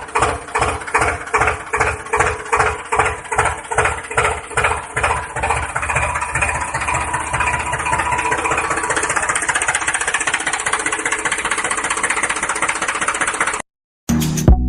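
Small motor of a homemade mini tractor running in regular pulses about three a second, evening out into a steady drone after about six seconds, then cutting off abruptly near the end.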